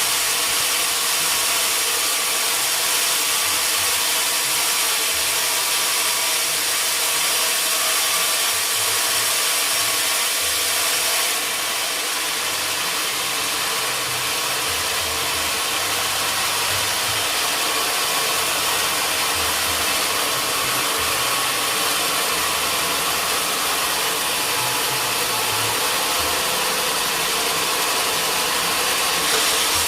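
Sawmill machinery running with a steady, even noise, a little quieter from about eleven seconds in.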